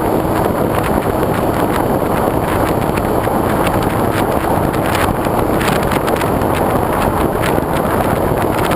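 Steady rush of wind over a GoPro mounted on the wing of a foam RC airplane in flight, mixed with the plane's motor and propeller, with many quick irregular clicks running through it.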